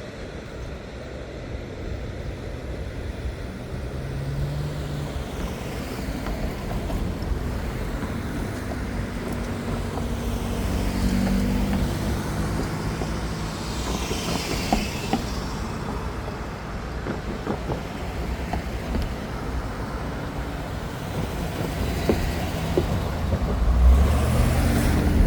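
Road vehicles driving past over a steady low rumble, their tyre noise swelling and fading as each one goes by, with a louder pass near the end.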